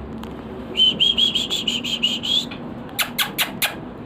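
White-rumped shama calling: a fast run of about a dozen repeated notes lasting nearly two seconds, then four sharp, clipped calls in quick succession.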